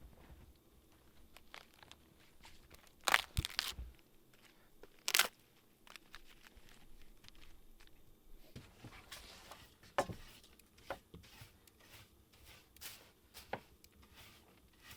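Handling noises: scattered rustling and crunching, with a cluster of sharper crunches about three seconds in, another around five seconds, and one near ten seconds.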